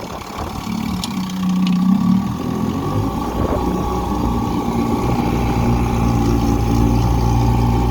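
1959 Evinrude Sportwin 10 hp two-cylinder two-stroke outboard running in reverse to back the boat out. The engine note gets louder and steadier about three seconds in as it takes up the load.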